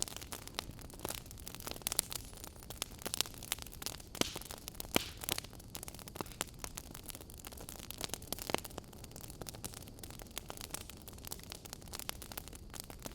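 Wood fire crackling in a fireplace: irregular pops and snaps of burning logs over a low steady hiss.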